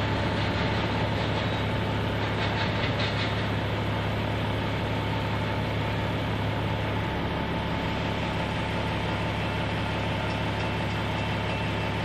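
Freight train of flatcars rolling past, its wheels clacking over the diamond where two rail lines cross, heard from inside a vehicle at the crossing.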